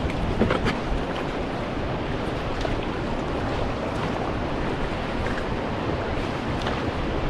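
Steady rush of river water around a whitewater raft as the crew paddles forward, with a few faint splashes.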